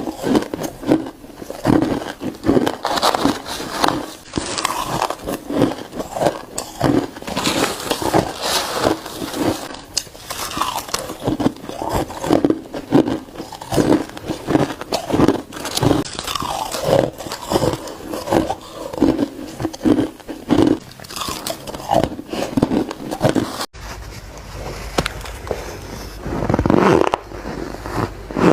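Close-up crunching of ice being bitten and chewed, one crunchy bite after another at about one or two a second. A sudden break comes near the end, after which a low hum runs under the crunching.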